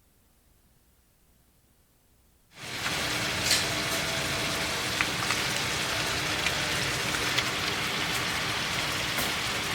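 Near silence, then about two and a half seconds in a pan of ground beef starts sizzling, a steady frying hiss with scattered pops and crackles.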